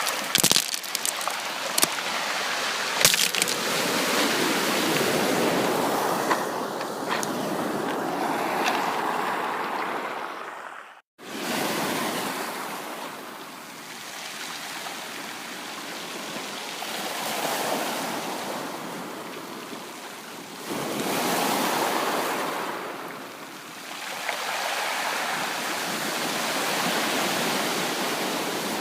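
Sea waves washing in and breaking, the surf noise swelling and ebbing every few seconds, with a few sharp clicks near the start. The sound cuts out briefly about eleven seconds in, like an edit splice.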